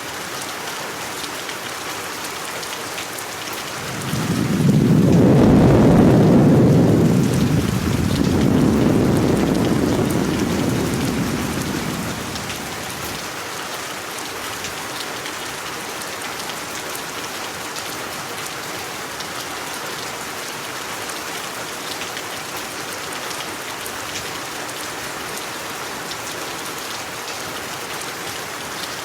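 Steady rain falling, with a low rumble of thunder rolling in about four seconds in, swelling twice and dying away about eight seconds later.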